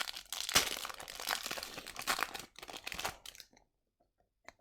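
Foil trading-card pack wrapper crinkling as it is handled and torn, stopping about three and a half seconds in, followed by a single soft click.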